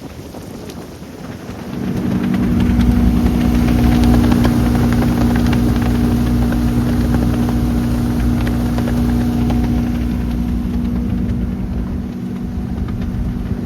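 A motorboat's 300 hp Mercury engine runs under way. It is quieter for the first two seconds, then picks up and runs at a steady speed, with a rushing noise behind it, easing slightly near the end.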